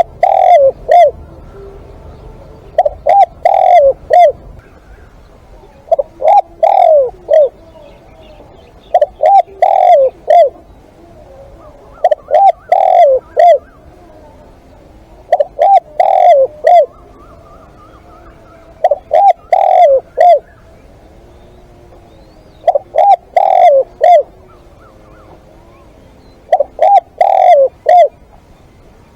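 Spotted dove cooing: a very loud, short phrase of three or four notes, repeated about every three to three and a half seconds, nine times.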